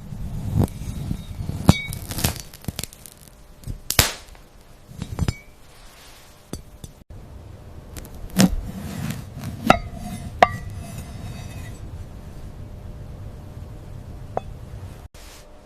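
Crisp raw vegetables being cut with a knife: irregular sharp snaps and chops, several ending in a brief ringing clink.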